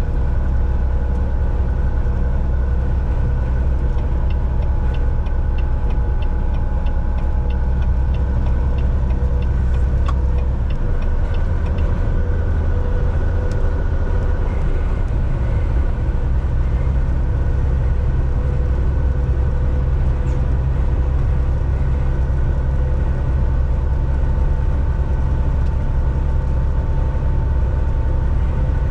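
Volvo VNL 760 semi truck driving at highway speed, heard from the cab: a steady engine drone with road noise and a few steady whining tones. About ten seconds in, the low engine note changes.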